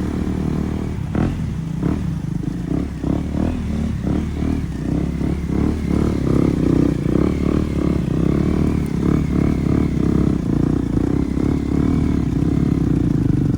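A KTM Duke 250's single-cylinder engine running through an SC Project aftermarket exhaust, with an uneven pulsing beat that quickens through the middle.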